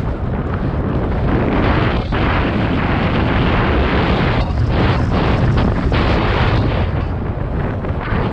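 Heavy wind buffeting on an action-camera microphone and tyres rumbling over rough ground, from a downhill mountain bike riding fast down the race track. It is a loud, steady rumble with a few short dips.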